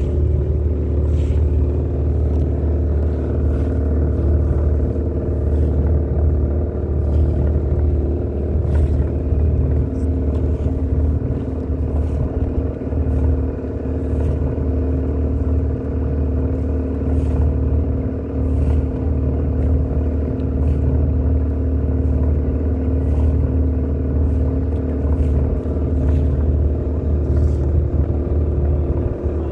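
Boat engine running steadily at a constant speed: a deep, even hum with a steady drone above it.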